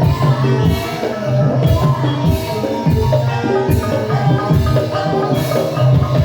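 Banyumasan gamelan music accompanying ebeg: struck keyed percussion plays a busy repeating melody over a steady low drone and drum strokes, with bright crashes about once a second.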